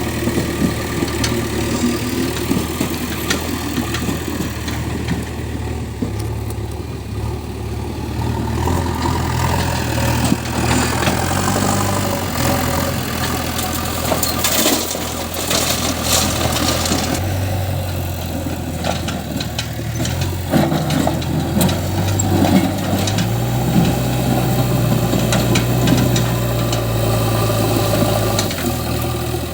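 Heavy diesel engine running with its speed changing up and down a few times, and a spell of clattering near the middle.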